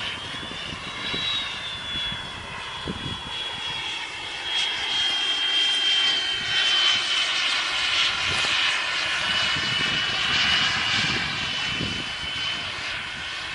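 Small model-airplane engine running at high revs, a steady high-pitched whine whose pitch drifts slightly up and down.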